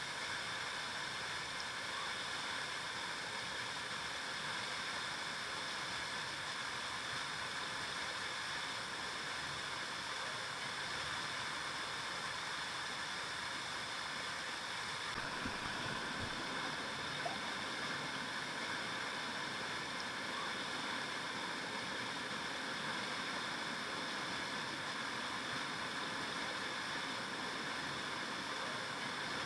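River water flowing steadily over rocks, a constant rushing and burbling.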